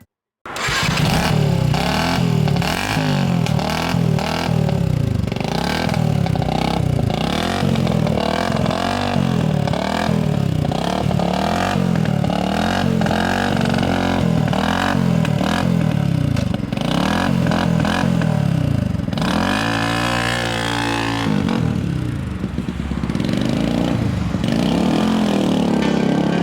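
Motorcycle engine revving up and down over and over, its pitch rising and falling about once a second. About twenty seconds in it drops briefly to a steadier, lower note, then the revving picks up again.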